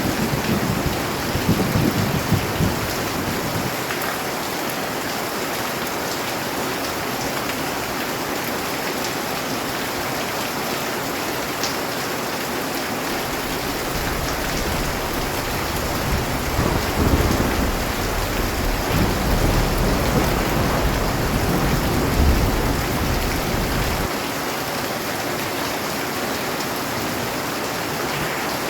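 Steady heavy rain hissing, with low rolling thunder rumbling during the first few seconds and again through the middle, where a longer rumble builds and then cuts off suddenly.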